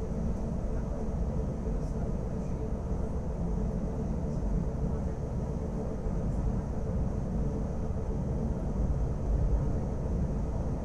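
Wengernalp Railway rack-railway train running, heard inside the carriage: a steady low rumble with a faint constant motor hum.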